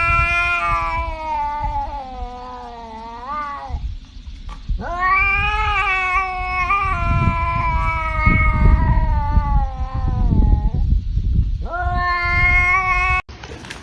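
A cat yowling in three long, drawn-out calls, the middle one lasting about six seconds and the last one cut off suddenly, over a low rumbling noise.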